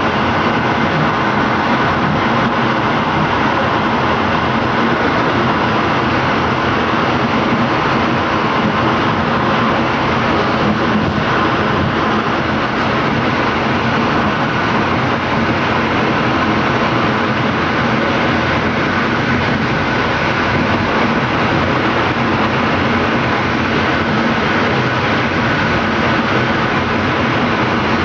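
Passenger train running along the track, heard from inside the last car: a steady, loud noise of wheels on rail and the moving car.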